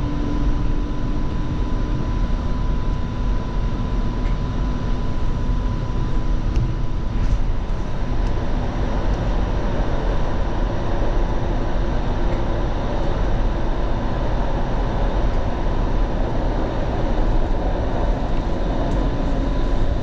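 Eglinton Line 5 light rail car (Alstom Citadis Spirit) running steadily between stops, heard from inside the car: an even rumble of wheels on rail with a steady high hum and faint lower tones that come and go.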